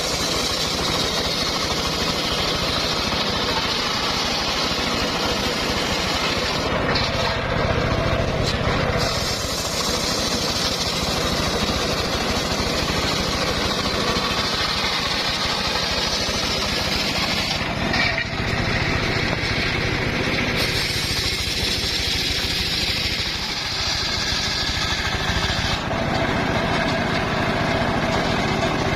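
Engine-driven circular sawmill saw running and cutting timber, a steady loud machine noise whose high hissing part drops out briefly several times.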